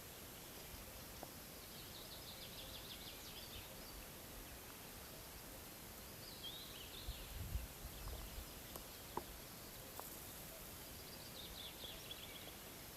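Quiet outdoor ambience with a steady faint hiss, as small birds chirp in short high trills several times. There are a few soft knocks a little past the halfway point.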